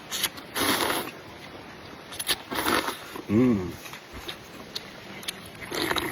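Noodles being slurped and chewed in short noisy bursts, with a brief hummed "mm" about halfway through.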